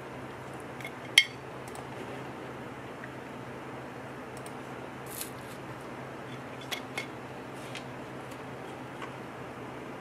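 A few sharp clicks and clinks of kitchen utensils being handled, one loud click about a second in and several lighter ones later, over a steady hiss.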